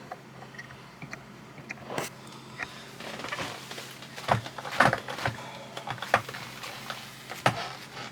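Skateboard on the floor: wheels rolling and several sharp clacks of the board hitting down, the loudest about the middle and near the end. The trucks have just been tightened.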